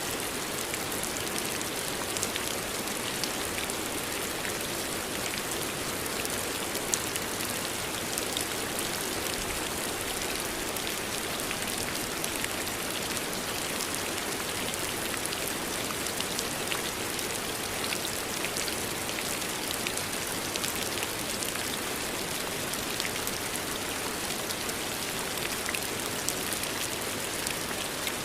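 Steady rain falling, many small drop ticks over an even hiss.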